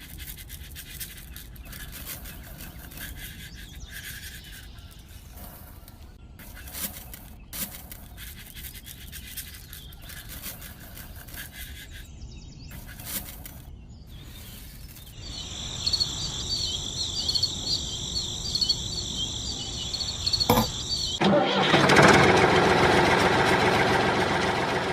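Scattered clicks and knocks, then a small electric motor whirring with a steady high whine from about two-thirds of the way in, growing louder near the end.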